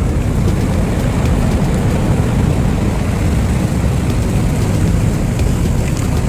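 Steady low rumbling roar of a surge of broken river ice and water rushing downstream after an ice dam gave way.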